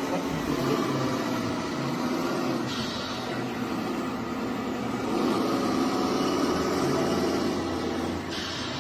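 Radio-controlled scale construction machines running, their motor sound rising and falling in pitch as they move, loudest in the second half.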